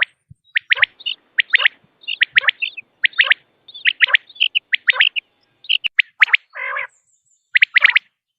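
Common quail calling: sharp, quick notes in clipped pairs and triplets, repeated about once every second, with softer chirps between them. About two-thirds of the way through comes one harsher, drawn-out rasping note.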